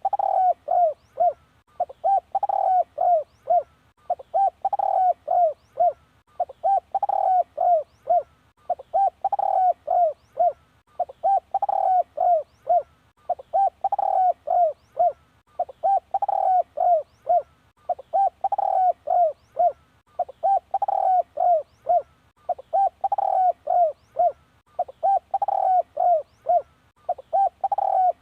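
Spotted dove cooing: a phrase of several soft coo notes repeated at an even pace, about every two seconds, over and over.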